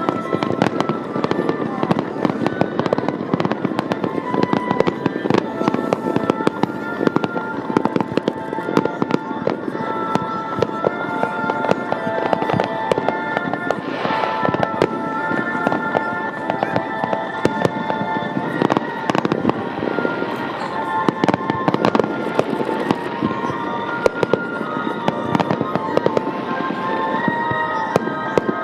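Fireworks display: a dense, continuous crackle of many small bursts, with music playing alongside that shifts from note to note.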